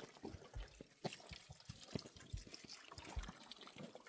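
Faint trickle of water, with scattered small clicks and knocks.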